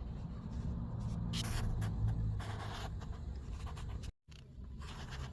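Faint scratchy rubbing and tapping noises over a steady low rumble, with a brief cut to silence about four seconds in.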